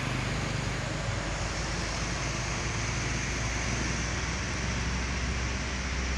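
A heavy vehicle on the move: a steady low engine drone with a constant rolling rumble and hiss.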